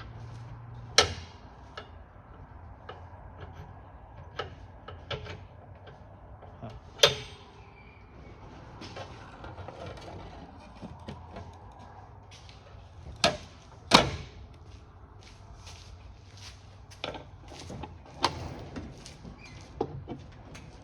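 Parts of a DeWalt 14-inch chop saw's blade mount being handled during a blade change: scattered metal clicks and clinks, with louder knocks about a second in, about seven seconds in, and twice close together around thirteen to fourteen seconds.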